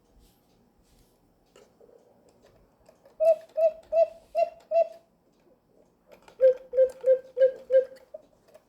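Homemade cuckoo-clock bellows pipe sounding short piping notes, about two a second: five at a higher pitch, then after a pause about five at a lower pitch. Each note starts with a faint click.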